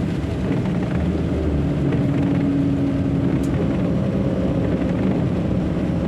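Truck engine running steadily while driving, heard from inside the cab as a continuous low drone.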